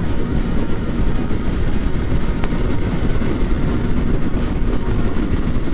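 Kawasaki Ninja 400's parallel-twin engine running at a steady cruising speed, mostly buried under heavy wind rush on the microphone. There is a single brief click about two and a half seconds in.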